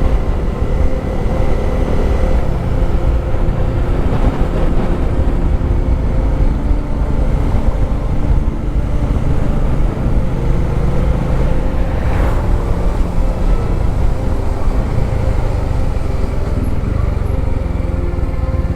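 Motorcycle engine running steadily on the move, under a continuous low rumble of wind and road noise.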